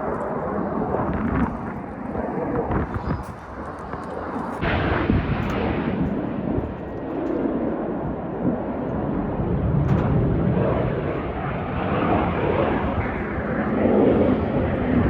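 Jet aircraft rumbling overhead: a continuous rumble that swells louder near the end.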